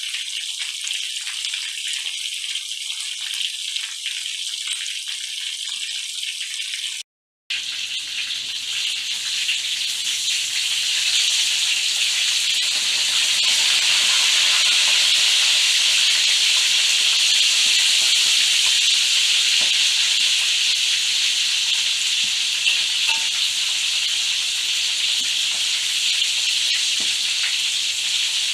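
Spiced waterhen pieces frying in hot oil: a steady hiss that breaks off for a moment about seven seconds in, then carries on louder.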